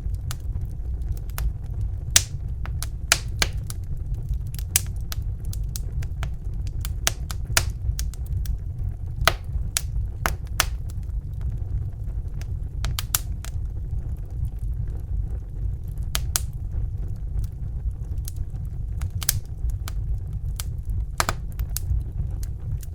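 Crackling fire: irregular sharp pops and snaps, a few each second, over a steady low rumble.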